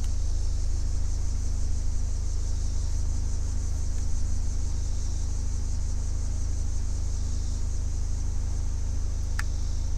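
MK7 Volkswagen Golf R's turbocharged 2.0-litre four-cylinder idling steadily, with one short sharp click about nine seconds in.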